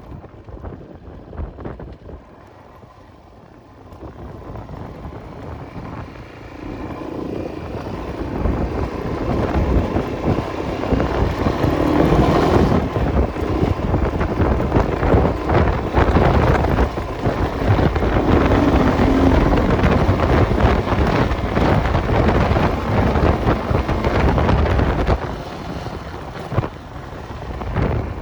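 Enduro motorcycle engine running under load as the bike is ridden, with wind buffeting the microphone. It is fairly quiet at first, grows louder from about four seconds in, and eases off near the end.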